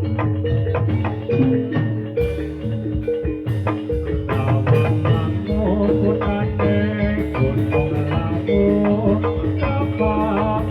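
Javanese gamelan music for a jathilan dance: bronze metallophones striking repeated melodic notes over drums, with sharp bright strikes joining about two seconds in.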